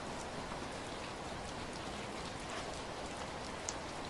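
Steady rain falling on leaves and surrounding surfaces, an even patter with scattered individual drop ticks, one a little sharper near the end.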